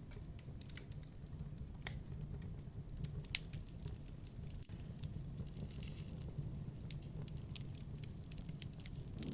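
Campfire burning: wood crackling with scattered pops and a low steady rumble underneath, one sharp pop about a third of the way in.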